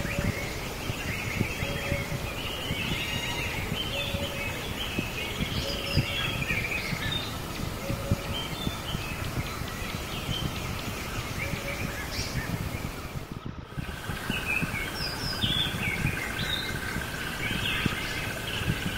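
Birds chirping and calling over a steady outdoor background noise. About two-thirds of the way through the sound briefly dips, and after it a steady high tone runs along under the chirps.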